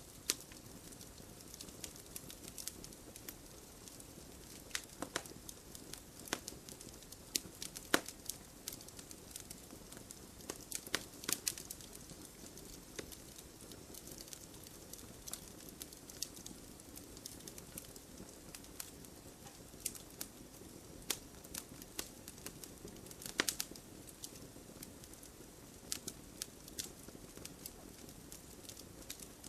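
Wood fire crackling in a fireplace: a steady soft rumble and hiss under irregular sharp crackles, with a few louder pops.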